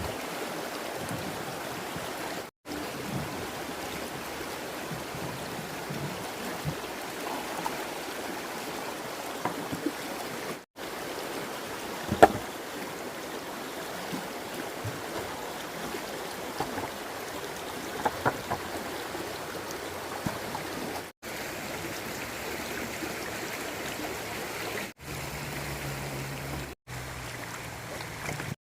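Steady rushing of a flowing stream, with a few sharp knocks over it, the loudest near the middle and a quick pair a few seconds later.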